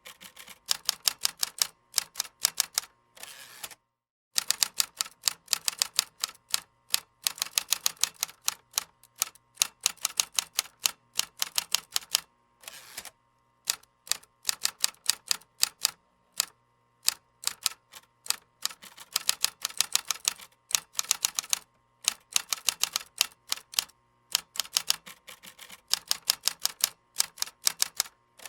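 Fast typing on a keyboard: long runs of rapid key clicks, broken every few seconds by short pauses. Now and then there is a longer, broader keystroke.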